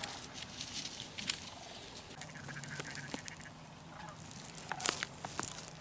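Scattered quiet duck quacks and calls, with a few short sharp clicks mixed in.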